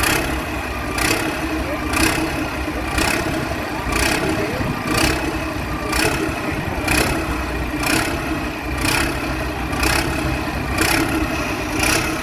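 An engine running steadily, with a sharp pulse repeating about once a second over a constant hum.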